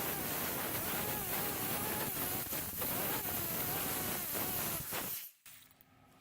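Compressed air hissing through a 3-inch air grinder's vane motor as it spins up fast, its whine wavering up and down in pitch; the air cuts off suddenly about five seconds in.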